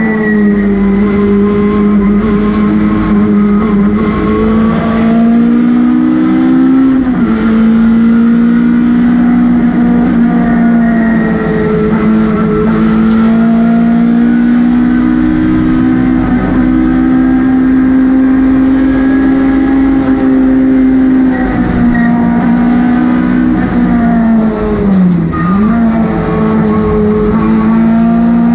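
MG ZR rally car's engine running hard at high revs, heard from inside the cabin over road noise. Revs climb and drop sharply with a gear change about seven seconds in, then briefly dip and climb back near the end.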